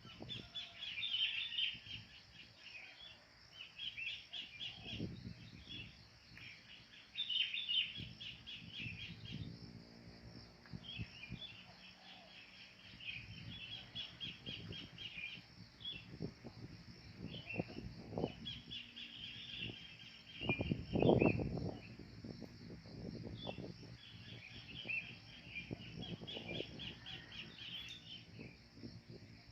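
Kingfisher (cekakak) calling in repeated rapid chattering phrases, each a second or two long, over a steady high insect buzz. A low rumble swells twice, loudest about two-thirds of the way through.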